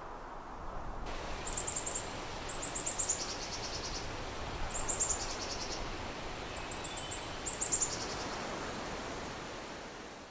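A small bird singing short phrases of rapid, high notes that step down in pitch partway through, five phrases in all, over a steady outdoor hiss. It all fades out at the end.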